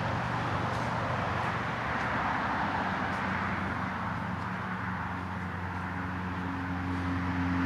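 Steady rush of highway traffic, with a low hum growing louder near the end.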